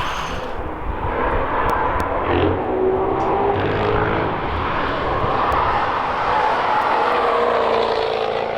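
A car engine droning as the car drives along the track, its pitch slowly rising and falling.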